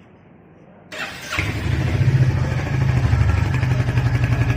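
Royal Enfield Hunter 350's single-cylinder engine starting up about a second in, then settling into a steady idle with an even, pulsing exhaust beat.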